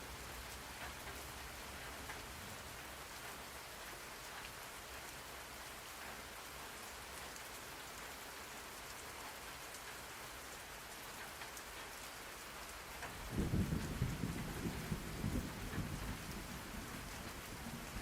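Steady rain falling, with a low rumble of thunder rolling in about two-thirds of the way through and carrying on, rising and falling, to the end.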